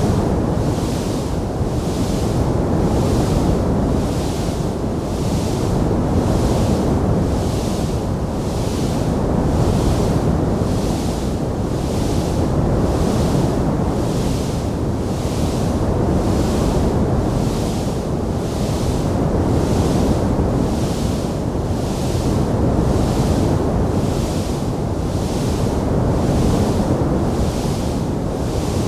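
Steady rushing noise, strongest in the low range, with a hiss above it swelling and fading about once a second. There are no crackles or pops.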